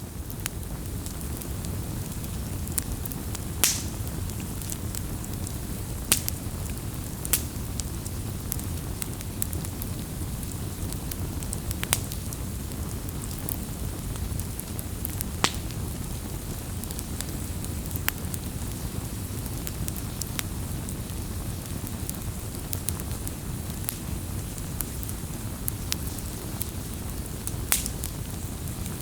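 Wood fire burning, a steady low rumble of flames with sharp crackles and pops every few seconds.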